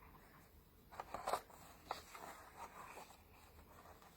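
A few soft rustles and taps of a picture book's paper pages being handled, clustered between one and two seconds in, over quiet room tone.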